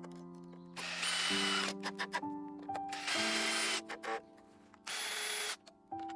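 Soft background music with sustained notes, over which a power tool runs in four short whirring bursts, each well under a second long.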